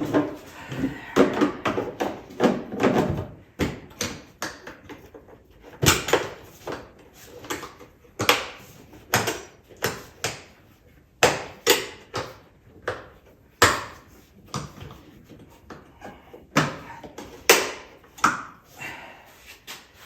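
Irregular series of sharp knocks and clicks, some louder than others, of plastic and metal ATV parts and tools being handled during reassembly.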